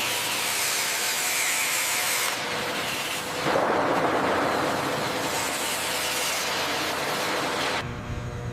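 A steady hissing noise, like a spraying or blasting tool at work, with a faint hum underneath. It shifts in tone a few seconds in and drops away shortly before the end.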